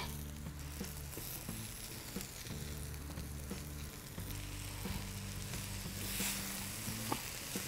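Freshly washed moringa (drumstick) leaves sizzling steadily in hot oil with onions in a steel kadai as they are tossed with two wooden spatulas, with a few faint clicks of wood on the pan.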